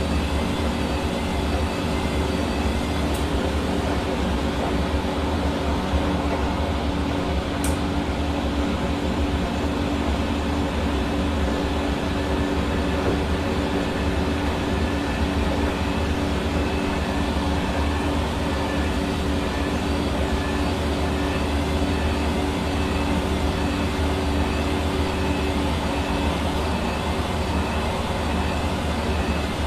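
Hair dryer running steadily: a continuous rush of blown air with a steady motor hum underneath.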